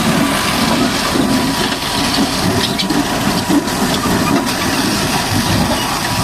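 High-pressure washer jet spraying water steadily, with a motor running underneath.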